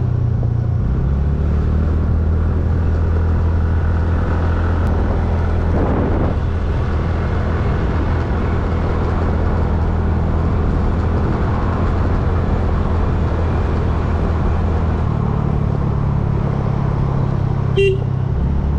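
Motorcycle engine running steadily under way, its note changing about a second in and again near the end. A short horn toot sounds just before the end.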